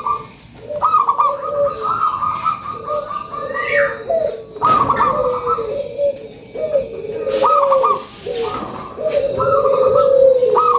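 Zebra dove (perkutut) cooing over and over, its short rolling phrases following one another almost without pause. A few sharp knocks come between them.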